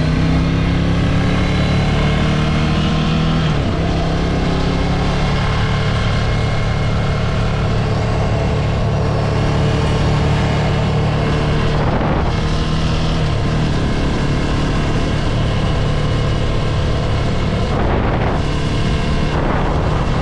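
Ducati Scrambler 803 Nightshift's air-cooled L-twin engine under way, the exhaust note rising under acceleration, dropping sharply at a gear change about three and a half seconds in, then running steadily with another drop in pitch a little past halfway.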